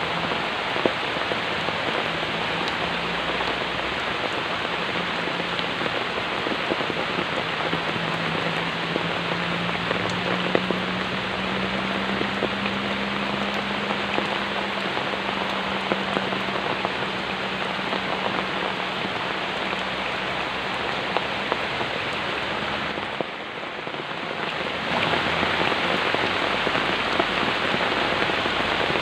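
Steady rain falling on a surface, a dense hiss with scattered droplet ticks. It briefly drops away about three-quarters of the way through and comes back louder, with a faint low hum under the middle part.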